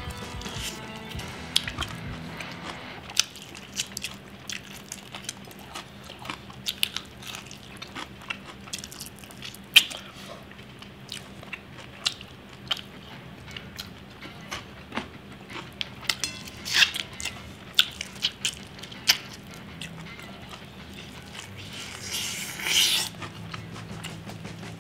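Close-up chewing and biting of crispy fried chicken, with frequent sharp crunches and mouth clicks at an uneven pace and a louder, longer burst near the end.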